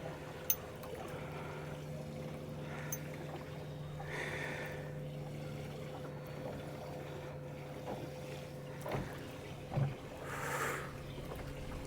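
Steady low hum aboard a small flats boat at rest on calm water, with two soft swishes, about four seconds in and near the end, and a few faint clicks.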